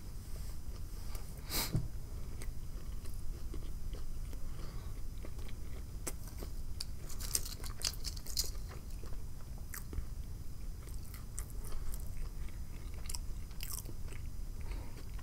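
Close-miked mouth chewing, with a brief rustle about a second and a half in and sharp, crisp crackles of potato chips in two clusters, one in the middle and one near the end.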